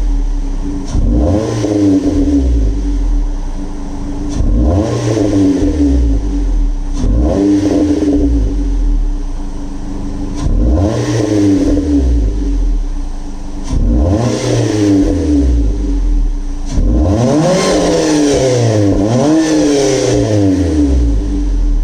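Nissan Altima 2.5S four-cylinder engine with a Borla high-performance exhaust and K&N cold air intake, revved about seven times, each rev rising sharply and dropping back to idle. The last two revs come close together near the end.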